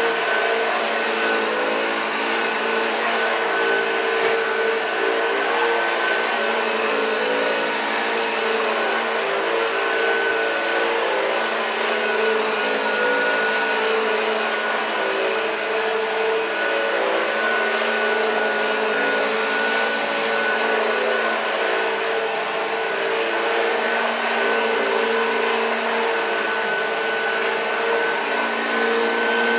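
1986 Hoover Junior U1206 upright vacuum cleaner running steadily on carpet, its motor giving a constant whine and rush with no pauses.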